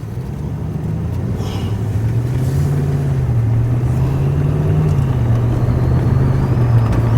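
Car engine and road noise, growing louder as the vehicle picks up speed. The engine note rises, dips briefly just before five seconds in, then holds steady.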